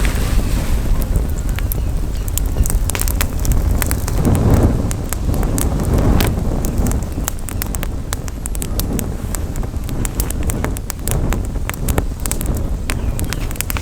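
Campfire crackling, with frequent sharp pops over a low rumble of wind on the microphone.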